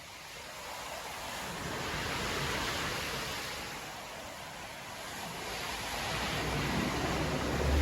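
Stormy sea surf breaking and washing on a beach, a steady rush that swells, eases, and builds again toward the end with a deep rumble.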